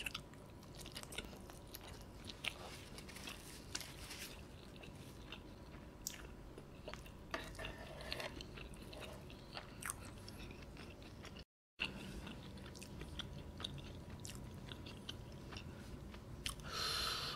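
Close-miked eating sounds of a man chewing a steamed dumpling with melted mozzarella and spicy sauce: soft wet mouth clicks and smacks. The sound drops out briefly about two-thirds through, and near the end there is a short, louder hiss.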